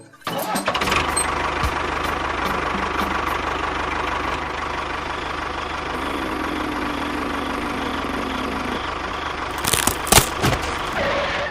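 A small engine running steadily with a fast, even chug. A steadier hum joins in for a few seconds midway, and a few sharp knocks come near the end.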